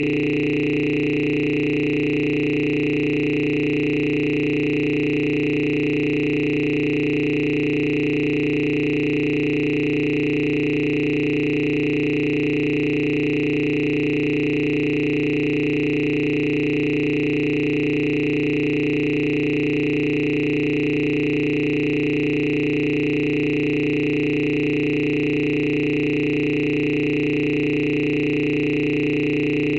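A steady, unchanging electronic tone, several pitches held together at an even level, with no breaks.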